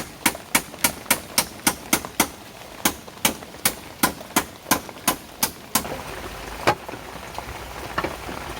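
Rapid sharp tool strikes, about three a second, typical of chopping or driving wood while building a shelter; they stop about six seconds in, with one last blow a second later. Rain hiss then swells as the shower picks up.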